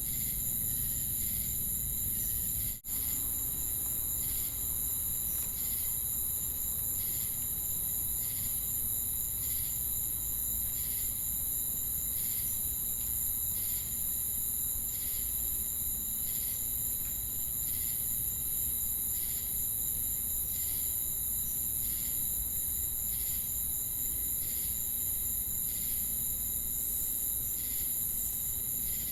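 Night insect chorus of crickets and cicadas: a steady, high-pitched continuous trill, with a regular chirp repeating a little more than once a second. The sound drops out for a split second about three seconds in.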